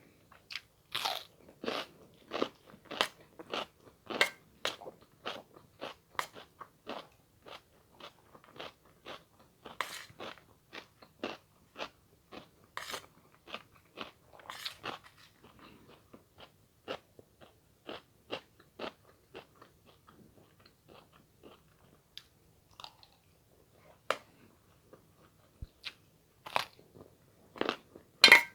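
Close-miked chewing: a person biting and crunching food, about two crunches a second at first, then fewer, with a louder burst of crunches near the end.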